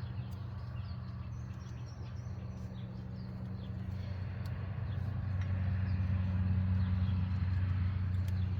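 A steady low hum that grows louder about five seconds in, with small birds chirping faintly and a few light clicks.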